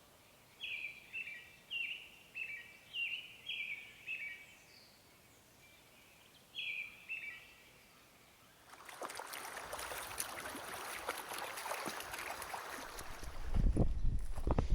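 A bird calling: a quick run of about seven short, high calls, then one more a few seconds later. After that a steady rushing hiss sets in, with a few low thumps near the end.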